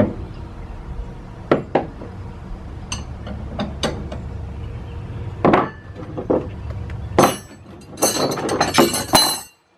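Metal hand tools, wrenches, clinking and clattering as they are picked through and handled: scattered sharp clinks, then a denser clatter near the end that cuts off suddenly.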